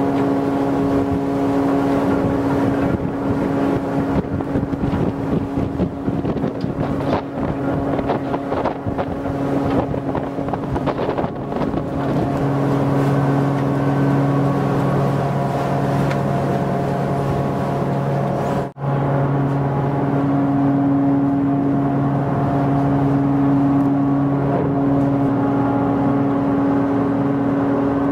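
Tokyo Bay Ferry's engines droning steadily, a low, even hum under wind and water noise. The sound breaks off for an instant about two-thirds of the way through and resumes.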